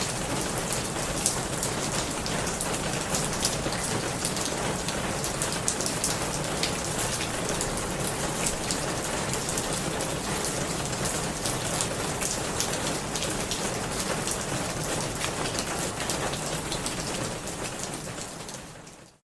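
Steady rain falling on a surface, a dense hiss full of individual drop taps. It fades out and stops just before the end.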